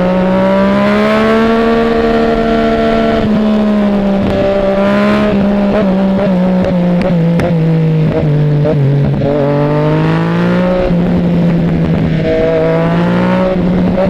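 Yamaha MT-09 motorcycle's three-cylinder engine, revving up and easing off several times while being ridden. Its pitch climbs early on, drops suddenly about three seconds in, and rises and falls again later.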